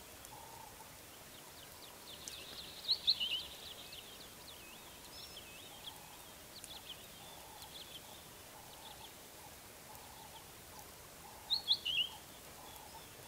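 Wild birds calling outdoors: a quick cluster of high chirps about three seconds in and another near the end, with scattered softer calls between, over a faint steady background hiss.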